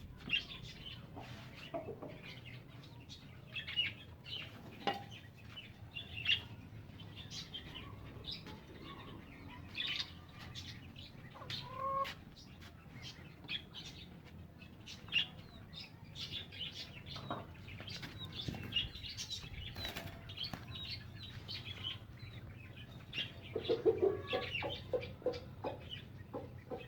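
Mixed birds: scattered high chirps and wing flaps, with a short run of low, rapid clucks about 24 seconds in.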